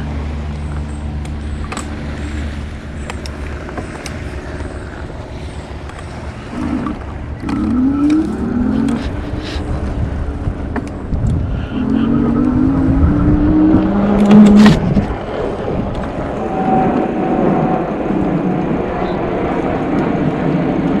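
Motor vehicle noise over steady road and wind rumble, with a motor tone rising about seven seconds in and a steady motor tone around twelve to fourteen seconds in.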